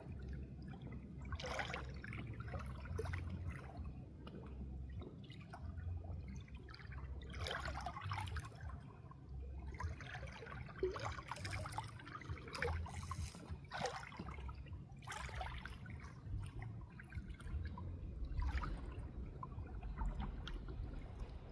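Water trickling and splashing, with irregular splashes every second or two over a steady low rumble.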